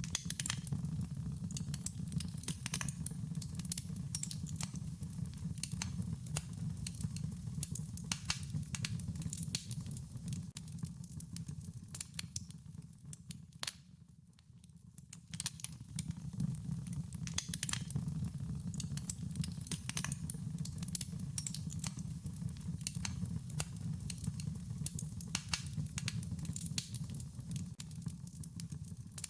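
Wood fire crackling: frequent sharp pops and snaps over a steady low rumble of burning, briefly quieter about halfway through.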